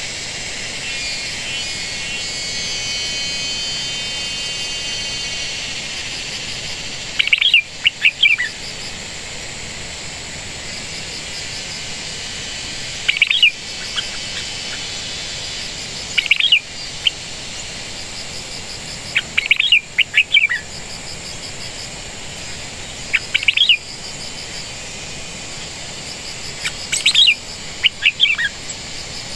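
A bird singing short phrases of quick high chirps, about one phrase every three to four seconds, over a steady high-pitched background hiss.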